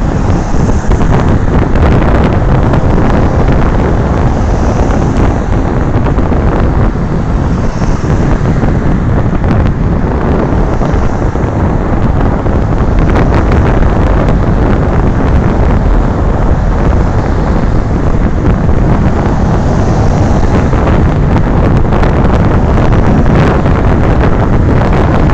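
Loud, steady wind noise buffeting the microphone of a moving rider, with no clear engine note.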